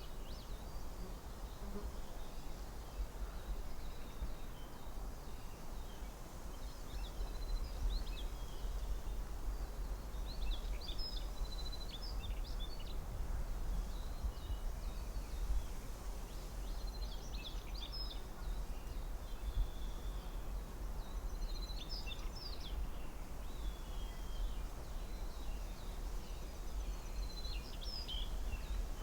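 Forest ambience: a steady low rumble and hiss of wind, with small birds giving short bursts of high chirps every few seconds, about four times.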